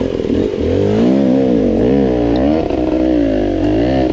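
A 300cc two-stroke dirt bike engine revving hard through a hill climb. Its pitch rises and falls in repeated swells about once a second as the throttle is worked.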